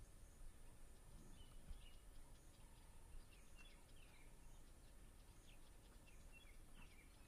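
Faint background ambience: a low steady rumble with small birds chirping briefly in scattered clusters.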